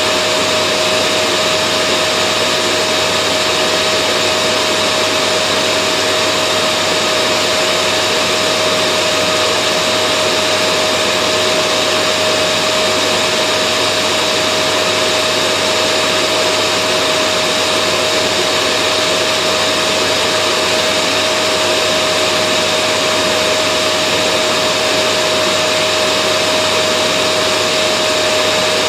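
Vacuum cleaner running steadily: an unchanging loud rushing whir with a constant hum, played as continuous white noise to soothe a baby to sleep.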